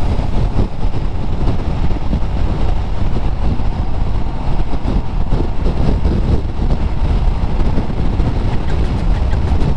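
Riding noise of a Honda CBR400R motorcycle at speed: heavy, steady wind rumble on the GoPro microphone, with the bike's running lost in the rush.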